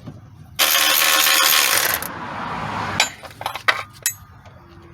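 A tool runs in one burst of about a second and a half, stops suddenly and trails off, followed by several light metallic clinks of tools and parts being handled on the engine.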